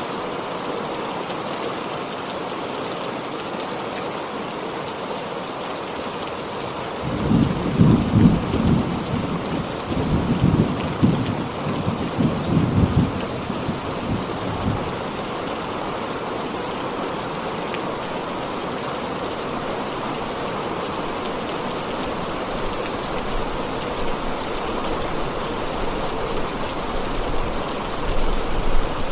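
Heavy rain falling steadily, with a roll of thunder rumbling in about seven seconds in, swelling in several surges and dying away after about eight seconds.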